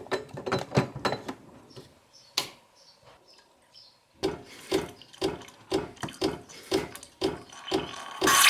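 A rapid cluster of knocks and clicks, then a single knock and a few faint ticks. From about halfway, a regular knocking repeats about twice a second.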